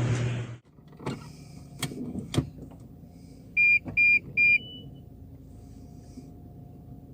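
A few knocks and clicks, then three short electronic beeps at one steady pitch, evenly spaced just under half a second apart, the loudest sounds here, followed by a brief higher tone. A faint steady hum sits underneath.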